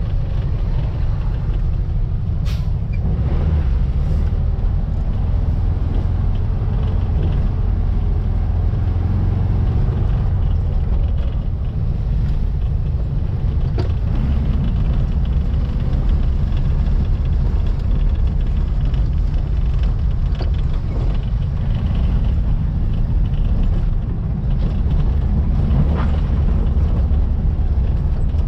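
Baja Bug's air-cooled 1700cc Volkswagen flat-four engine running while driving, a steady low drone with road noise and a few faint clicks.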